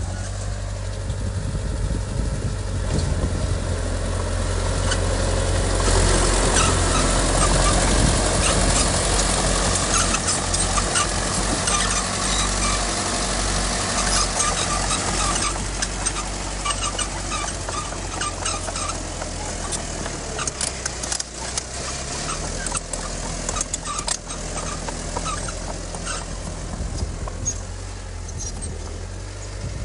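Diesel engine of a heavy earthmoving machine running steadily, with dense clanking and rattling that gets louder from about six seconds in and eases off in the second half.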